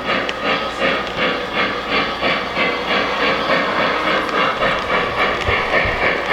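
Synthesized steam-locomotive chuffing from the Lionel 611 J Class 4-8-4 model's Legacy RailSounds system as the train runs. It is a steady, hissing chuff at about two and a half beats a second.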